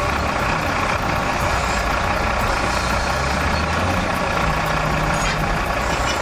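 Heavy vehicle's diesel engine running steadily under a dense, even rush of mechanical noise, with no change in pitch or level.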